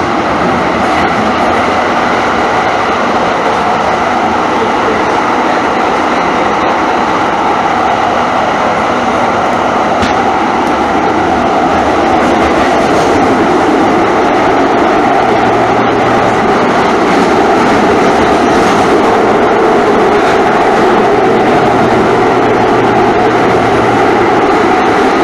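Light-rail train running: a steady rumble of wheels on track. A low hum joins about fifteen seconds in and drops away near the end.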